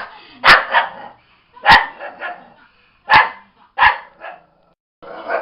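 A dog barking in sharp, loud barks about every second and a half, several of them followed quickly by a smaller second bark.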